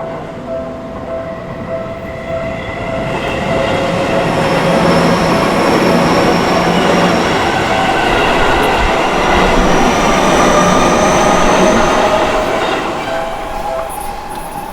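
Japanese level-crossing warning bell ringing in a steady repeated two-tone pattern while a Seibu Shinjuku Line electric train passes. The train's running noise builds from about three seconds in, stays loud through the middle with a thin high whine over it, and fades near the end.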